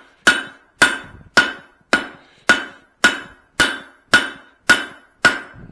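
Straight peen hammer striking hot steel on a drift set in a hammerhead's eye, ten blows in an even rhythm of about two a second, each with a short metallic ring: the eye being widened on the drift.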